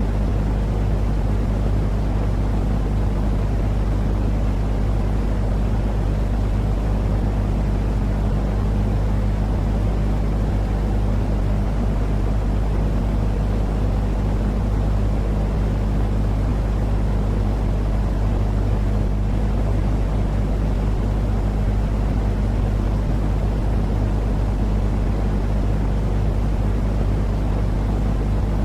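Continuous baby-soothing sleep noise: an unchanging low rumbling hiss with a steady low hum underneath.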